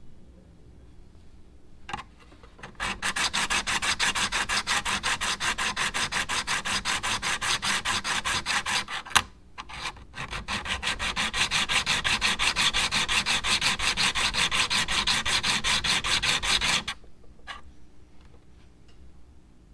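Rapid back-and-forth hand scraping or filing on a vintage meat grinder's part, at about five even strokes a second. The strokes break off briefly with a sharp click about nine seconds in, then start again and stop near the end.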